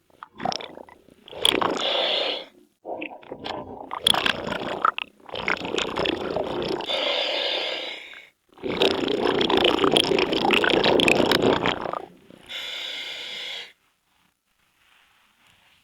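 A scuba diver breathing through a regulator underwater: hissing inhalations alternating with longer crackling, bubbling exhalations, in uneven bursts of one to three seconds with short pauses between them.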